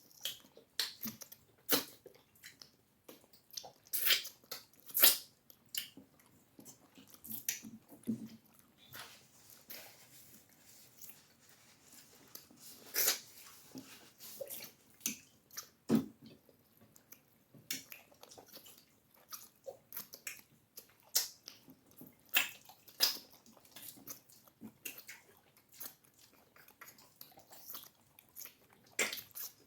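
Close-miked chewing and mouth sounds of people eating cassava fufu with egusi soup: irregular short smacks and clicks throughout.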